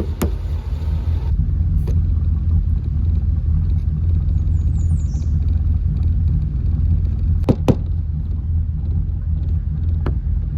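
Motorhome engine idling steadily with a low rumble. Two sharp clicks come about three quarters of the way through.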